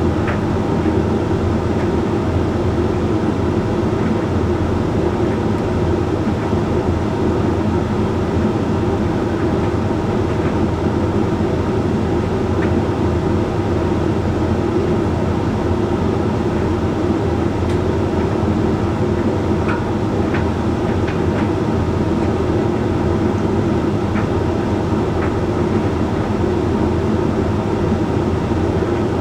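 Hoover Link X Care HLX C10DRGR condenser tumble dryer running mid-cycle: a steady hum of the motor, fan and turning drum, with a few faint light ticks.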